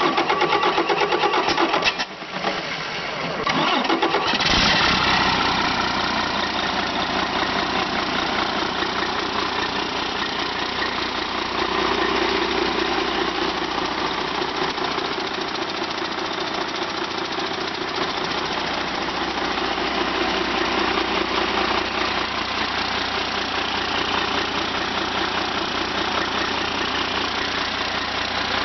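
2014 Detroit Diesel DD13 inline-six diesel engine being cranked over, catching about four seconds in and settling into a steady idle.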